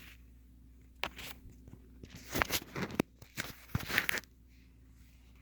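Crinkling and rustling handling noise from a new pair of gloves and their packaging being handled, in short crackly bursts, one about a second in and a busier run about two to four seconds in.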